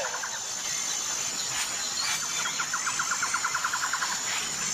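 Recorded bird call played as an animal sound: chirps and, around the middle, a fast rattling trill of about a dozen pulses a second, over a steady high hiss.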